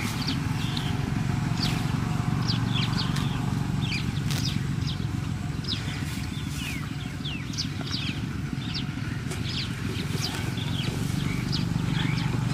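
Small birds chirping, many short high calls a second, over a steady low rumble.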